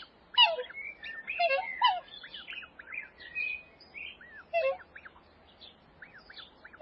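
Small birds chirping: many quick, short arched chirps overlapping one another, with a few lower calls sliding downward scattered among them.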